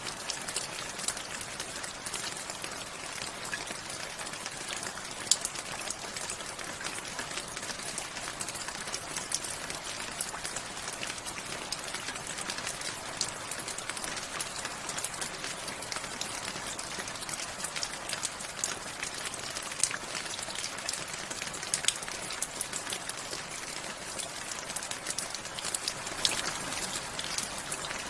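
Steady rainfall: a constant hiss of rain with many individual drops pattering and ticking close by.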